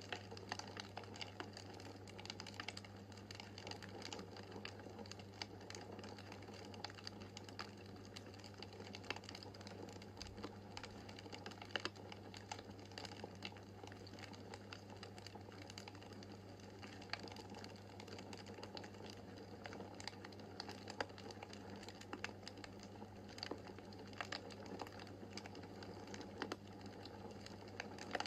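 Wood fire crackling in a fireplace: many small, irregular pops and snaps over a steady low hum.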